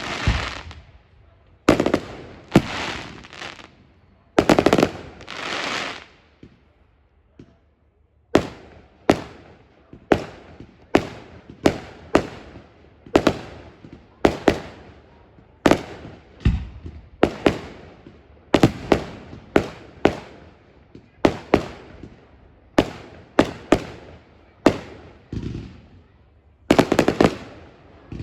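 Fireworks display: a long run of loud aerial shell bursts, roughly one or two bangs a second, each with a short fading echo, with a brief lull about six to eight seconds in.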